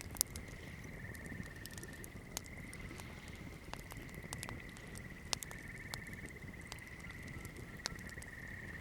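Wood campfire crackling, with scattered sharp pops over a low rumble of burning, and a steady high-pitched trill behind it.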